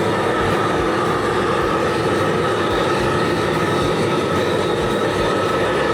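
Shinfuji Burner RZ-740BKEXP high-output butane gas torch running at full flame: a loud, steady rush with a few constant tones in it, unbroken throughout.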